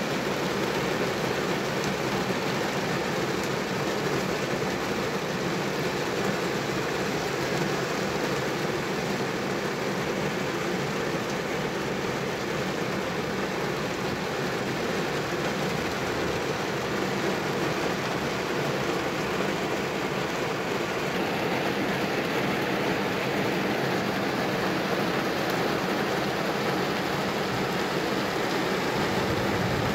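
Heavy rain falling on a vehicle, heard from inside it, mixed with the sound of traffic on the waterlogged road: a steady, even rushing noise that hardly changes.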